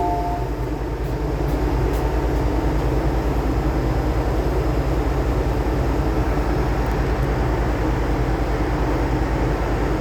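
MTR M-Train electric multiple unit running, a steady rumble with an even low pulsing from the wheels and running gear. The last tone of the door-closing chime ends in the first half-second.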